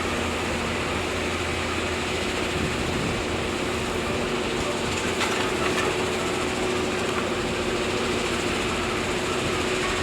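Diesel engine of heavy earthmoving machinery running steadily, a constant hum with a steady tone, with a couple of faint knocks around the middle.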